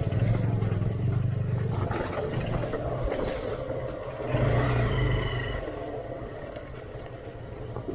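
Motorcycle engine revving hard under load as the bike climbs a steep off-road track. The revs come in suddenly, surge again about halfway through, then die down near the end.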